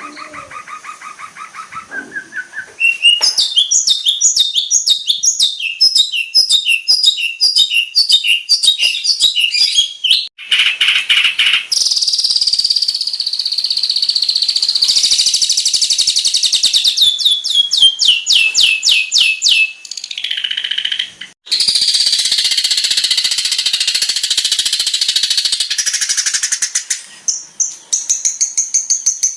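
Long-tailed shrike (cendet) song packed with mimicked phrases: a fast, varied run of high chattering notes and trills that switches abruptly from one phrase to the next.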